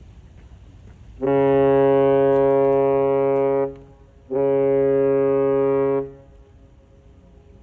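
Cargo ship's horn sounding two blasts, each a steady low tone: the first about two and a half seconds long, the second a little shorter after a brief gap.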